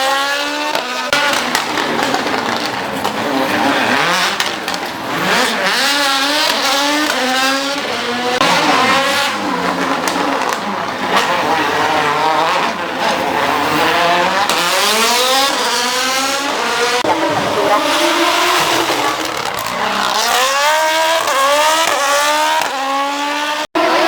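Rally car engine revving hard, its pitch climbing and dropping again and again through gear changes, with tyres squealing as the car slides. Near the end the sound cuts out abruptly for a split second.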